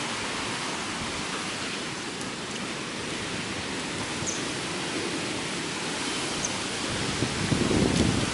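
Steady hiss of heavy typhoon rain, with gusts of wind rumbling on the microphone building up near the end.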